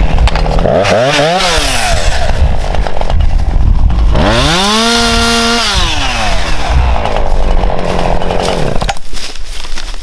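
Husqvarna two-stroke chainsaw, used to trim a missed branch off a firewood round. It revs briefly about a second in, then goes to full throttle for about a second and a half around the middle, and drops back to idle.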